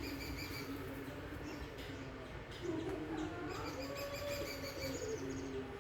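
Birds calling with short, high, repeated chirps over a steady low hum.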